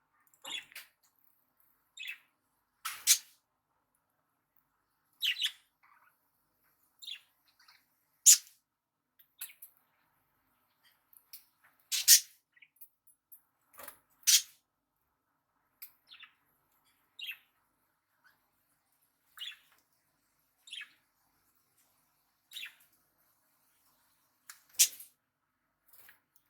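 Budgerigars giving short, separate chirps, one every second or two, with a few louder, sharper calls among them.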